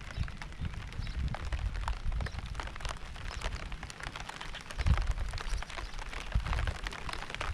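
Steady rain with many separate drops striking, over an uneven low rumble that swells about five seconds in.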